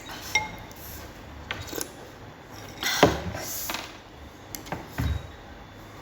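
Several separate knocks and clunks of hard objects being handled and set down, about half a dozen in all, the loudest about three seconds in with a short rattling tail.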